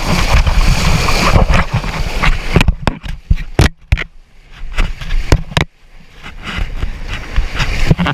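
Rushing river water and splashing around an inflatable raft. A steady wash of white water gives way about two and a half seconds in to separate splashes and knocks, then builds up again near the end.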